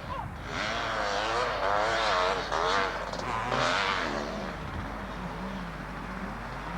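Motocross motorcycle engines revving up and down for about four seconds, then settling to a lower, steadier engine note.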